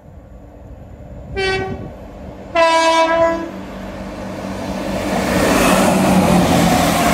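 A Great Western Railway diesel multiple unit sounds its two-tone horn, a short higher note then a longer, lower, louder one, as it approaches. It then passes close by, the engine and wheel noise rising to its loudest near the end.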